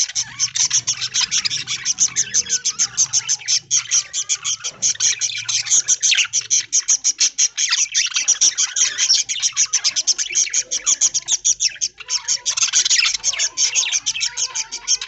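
A flock of budgerigars chirping and chattering: many birds at once, in a dense, fast, unbroken stream of chirps.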